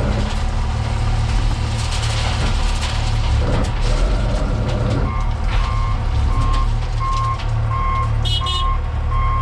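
Heavy wheel loader's diesel engine running steadily with a deep rumble, and about five seconds in its reversing alarm starts beeping evenly, a little under two beeps a second, as the machine backs up.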